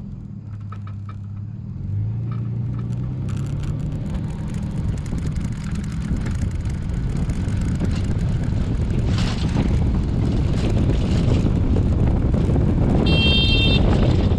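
Tow truck's engine speeding up from idle as it starts pulling the hang glider for a truck-tow launch, with wind rushing on the microphone that grows louder as the glider gains speed. A short high electronic beep sounds near the end.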